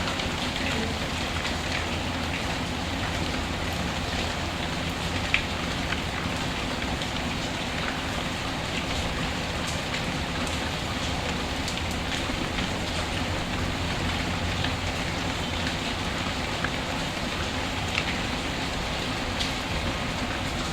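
Steady rain falling, with a few sharp crackles and pops from a wood fire, one of them louder about five seconds in.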